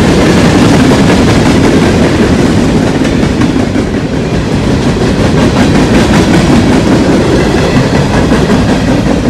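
CSX freight train's open-top hopper cars rolling past at close range: a loud, steady rumble of steel wheels on the rails.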